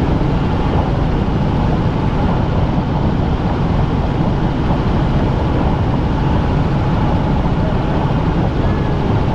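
Helicopter in flight heard from inside the cabin: a loud, steady drone of engine and rotor noise.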